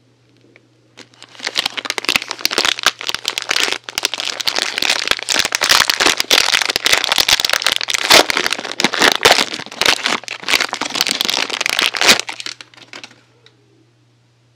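Packaging being unwrapped by hand, crinkling and crackling densely. It starts about a second in and stops near the end.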